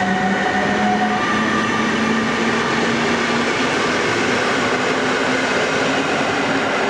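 Newag Griffin EU160 electric locomotive's traction drive whining as it pulls away, several tones rising slowly in pitch over the rumble of the train on the rails.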